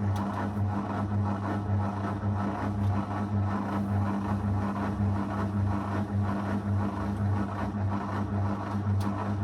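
Zanussi FL984CN front-loading washing machine running mid-cycle: a steady electric hum with a pulsing, swishing noise over it.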